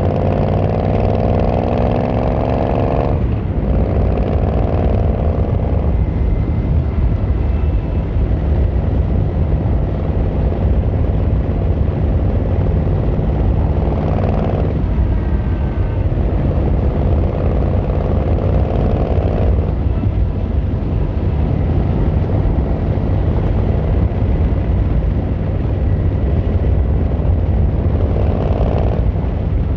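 Yamaha XVZ1300 Royal Star's V4 engine and exhaust under way. It accelerates with its note rising over the first few seconds, then shifts up about three seconds in. It pulls up through the revs again around the middle and near the end, with a steady deep rumble between.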